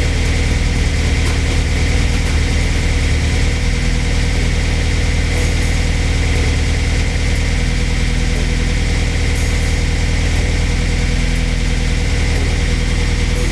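Honda S2000 four-cylinder engine idling steadily, freshly started after a new intake manifold was fitted, while its fuel map is being richened from a lean mixture.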